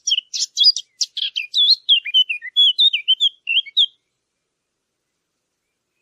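A small songbird, the 'fig bird' (عصفور التين) sought by bird hunters, sings one fast, varied warbling phrase of quick chirps and gliding notes. The phrase stops about four seconds in.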